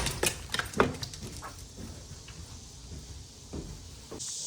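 A dog giving a few short yelps or barks in the first second, then quieter sounds; near the end an abrupt switch to a steady, high chirring of insects.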